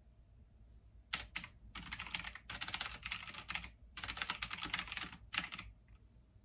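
Computer keyboard typing in quick runs of keystrokes, starting about a second in and stopping shortly before the end, with brief pauses between the runs.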